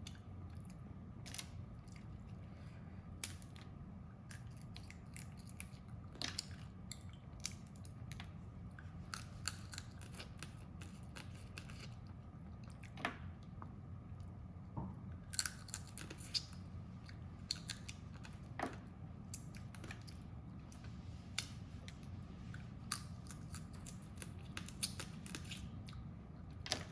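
Crab being eaten: irregular sharp cracks and clicks of crab shell being broken and bitten, with some chewing, over a low steady hum.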